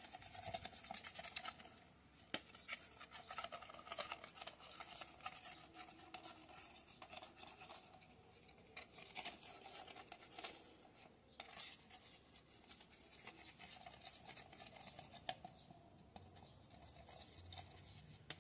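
Faint rubbing and scratching as PVC glue is spread over a PVC elbow fitting, with scattered light clicks and taps from handling the plastic parts.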